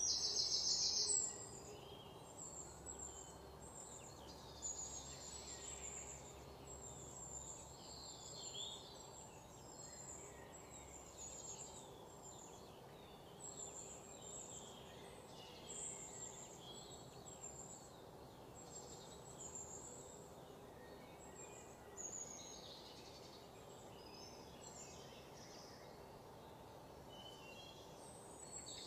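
Birds chirping and calling, many short high calls scattered throughout, over a faint steady low hum. A louder, rapid buzzing call sounds in the first second or so.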